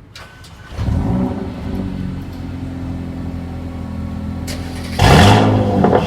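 A car engine revs up about a second in, settles to a steady idle, then is revved hard near the end.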